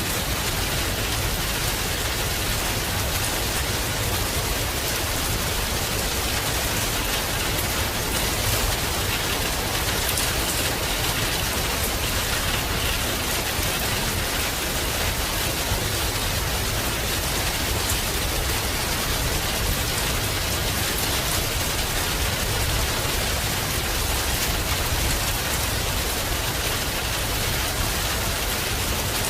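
Heavy rain falling steadily, a dense, even hiss of rain on surfaces with no rise or fall.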